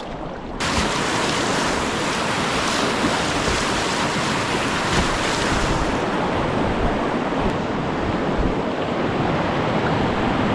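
Rushing whitewater of a river rapid heard close to the water, with wind buffeting the microphone. The rush jumps suddenly louder and brighter about half a second in, and eases slightly after about six seconds.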